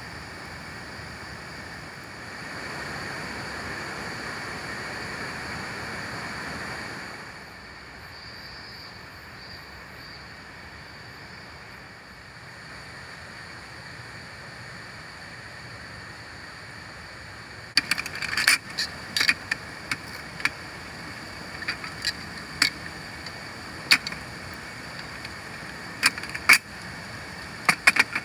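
Steady hiss of rain and river, swelling for a few seconds near the start, with a run of sharp, irregular clicks and knocks through the second half.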